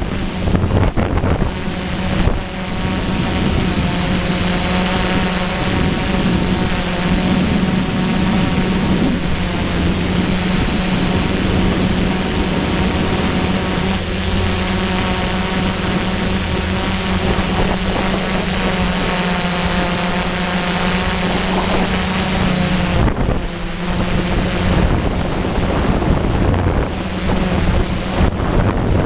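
DJI F550 hexacopter's brushless motors and propellers humming steadily in flight, with wind on the microphone. The hum briefly drops about three-quarters of the way through, then picks up again.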